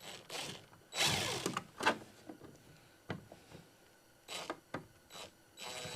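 A screw being driven into a plastic kayak hull with a power driver, without a pre-drilled hole. There are clicks and handling knocks as the screw is set in place, a short noisy burst about a second in, and a steady driver whine starting near the end as the screw begins to bite.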